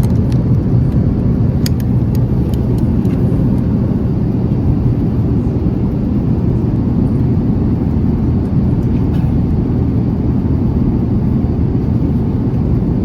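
Airbus A350-900 cabin noise: the steady low rumble of the Rolls-Royce Trent XWB jet engines and airflow, heard from inside the cabin. A few faint clicks sound in the first couple of seconds.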